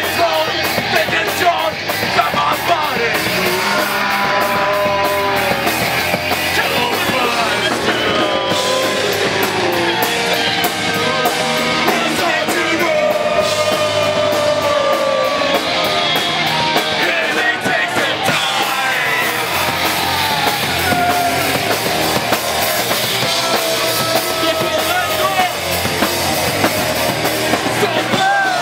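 Live punk rock band playing, with distorted guitars, drums and shouted vocals.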